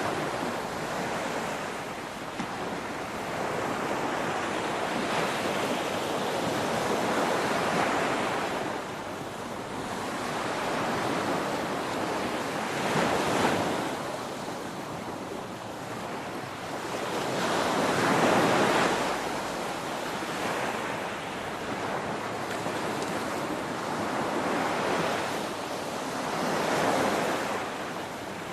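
Ocean waves breaking on a shore: a continuous rush of surf that swells and ebbs every few seconds as each wave comes in, the biggest surge about two-thirds of the way through.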